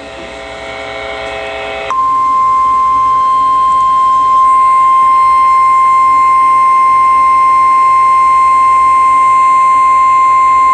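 Emergency alert tone broadcast over radio ahead of a severe thunderstorm warning: a harsh chord of several steady tones for about two seconds, then one loud, steady high tone held for about nine seconds, the 1050 Hz weather-radio warning alarm.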